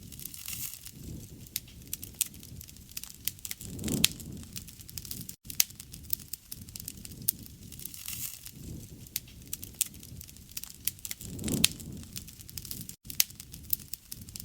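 Wood fire crackling, with frequent sharp pops and snaps over a low rumble of flames that swells twice, about four seconds in and about two-thirds of the way through.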